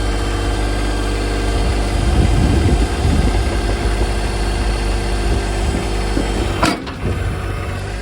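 John Deere 2025R compact tractor's three-cylinder diesel engine running steadily, with a rougher, louder stretch about two seconds in and a sharp click near the end, after which it runs on a little quieter.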